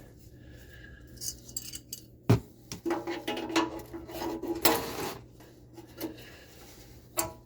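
Metal parts and tools clinking and clattering, with a sharp knock about two seconds in, a run of ringing metallic clinks through the middle, and one more knock near the end.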